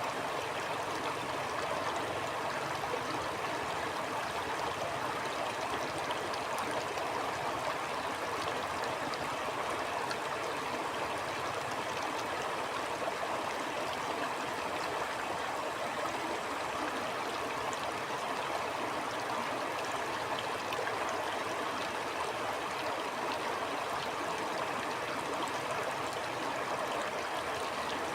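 Stream water flowing steadily and evenly.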